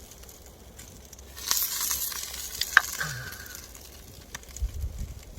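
Chicken dak-galbi sizzling on a hot elvan stone plate over a wood fire, with a spell of loud hissing about a second and a half in, then a sharp click a little later.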